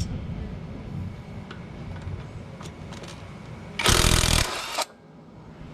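A power tool runs in one burst of about a second, starting about four seconds in, with faint clicks of tool handling before it.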